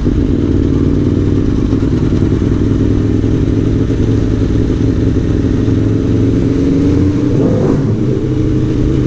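Aprilia Tuono V4 1100 Factory's V4 engine running steadily under way, with a brief shift in pitch about three-quarters of the way through.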